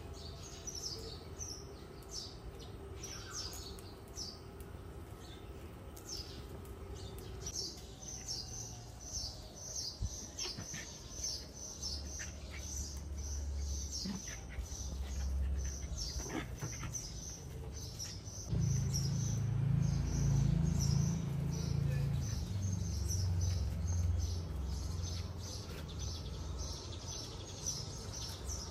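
Small birds chirping over and over in quick, short, high notes. About two thirds of the way through, a low rumble comes in and becomes the loudest sound.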